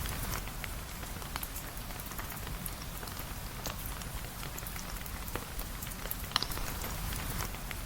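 Steady rain, with scattered sharp ticks and pops through it; the loudest comes about six and a half seconds in.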